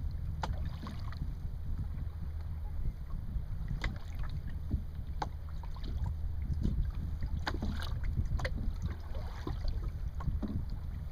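Wind rumbling steadily on the microphone aboard a small open sailing boat, with water splashing and slapping against the hull every second or two.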